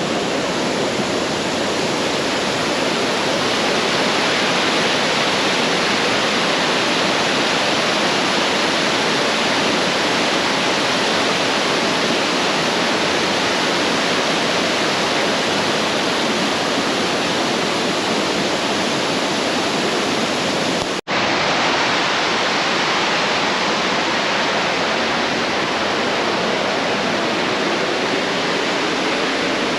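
Steady, loud rush of water falling at Cam Ly Waterfall, with a momentary drop-out about two-thirds of the way through.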